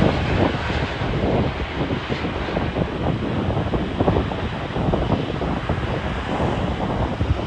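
Wind buffeting the microphone: a steady, loud rushing noise with quick irregular gusts.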